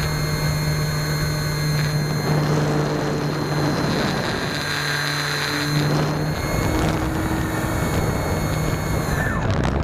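Electric glider's motor and folding propeller running under power, a steady whine over rushing wind noise; the high whine cuts off near the end.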